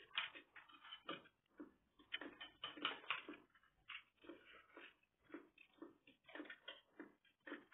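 A person chewing food close to the microphone: short wet smacking mouth clicks, a few every second, in an irregular rhythm.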